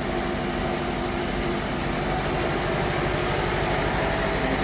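Bandsaw sawmill machinery running, a steady mechanical drone with a few constant tones over a low rumble.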